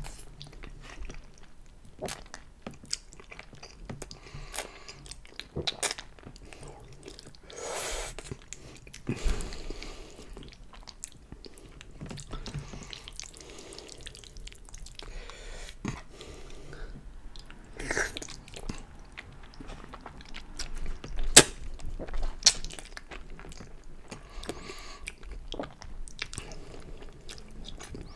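Close-miked mouth sounds of a man eating pasta in a thick chili-cheese sauce: wet chewing and smacking of full mouthfuls of noodles, with irregular sharp smacks, the loudest a little past the middle.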